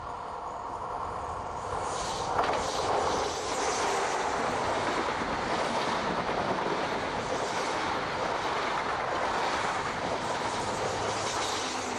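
British Rail InterCity 125 (HST) passing close at speed. The noise rises sharply about two seconds in as the power car goes by, then holds steady as its Mk3 coaches run past, wheels on the rails.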